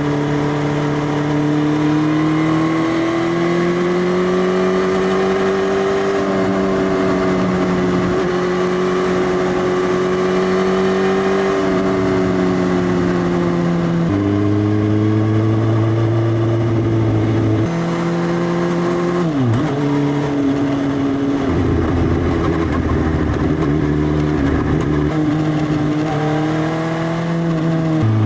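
Suzuki GSX-S1000 inline-four running through an Arrow Race Tech full exhaust system with the dB killer removed, a loud exhaust note. It holds fairly steady revs for several seconds at a time, with several sudden changes in pitch and a quick dip and recovery a little past two-thirds of the way through.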